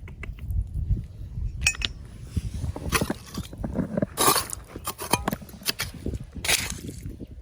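Rocks and gravel clinking and scraping as they are handled or dug through: many short hard knocks, with a few longer scrapes, the loudest a little past four seconds in.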